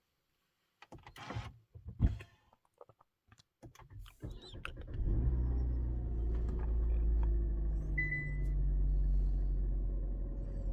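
Handling clicks and a sharp knock inside a car, then about four to five seconds in a 2024 Hyundai Tucson's engine starts and keeps running with a steady low drone. A short beep sounds near eight seconds in.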